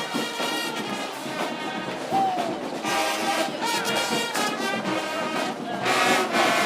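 A band playing music with trombones and trumpets prominent, several notes held at once, getting louder near the end.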